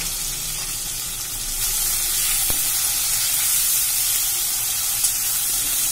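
Tomato pieces and green chillies frying in hot oil in a metal kadai, a steady sizzle that grows louder about one and a half seconds in, while a metal spatula stirs them; a single click about two and a half seconds in.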